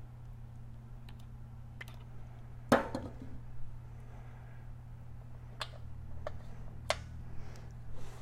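Sharp metallic clicks and clinks, about five, the loudest a little under three seconds in, from Feuling hydraulic lifters being set into the lifter bores of a Harley-Davidson Twin Cam 103 engine. A steady low hum runs underneath.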